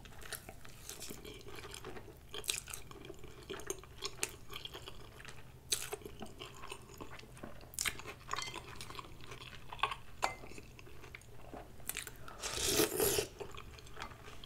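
Close-up chewing and wet mouth smacks from eating a grilled cheese sandwich dipped in tomato soup, with many short clicks. A longer, louder sound comes about two seconds before the end.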